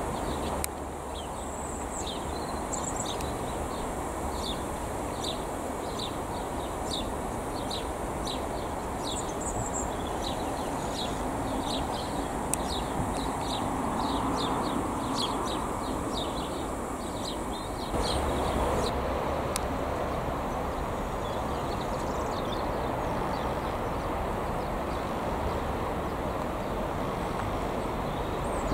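Small bird singing repeated short high chirps, about two a second, over a steady low rumble. About two-thirds of the way through the chirping stops and the rumble becomes a little louder.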